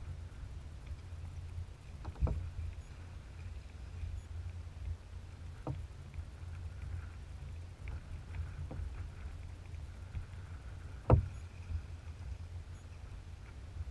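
Kayak being paddled on open water: a steady low rumble from the water and hull, with sharp knocks of the paddle roughly every three seconds, the loudest near the end.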